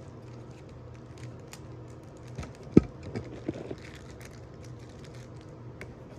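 Bubble wrap and packaging being handled and pulled off a part: scattered small crackles and clicks, with one sharp knock about three seconds in as something is set down or bumped.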